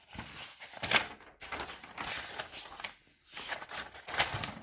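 Writing sounds: a pen or marker scratching on a surface in quick, irregular strokes, with brief pauses between them.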